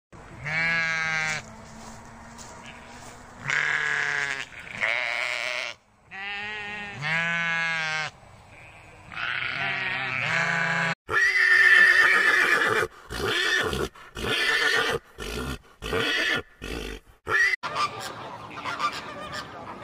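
A flock of sheep bleating: about five long, wavering bleats, each a second or more. About eleven seconds in, it switches to flamingos honking in a loud, choppy chorus that keeps cutting off abruptly, then fades to scattered quieter calls near the end.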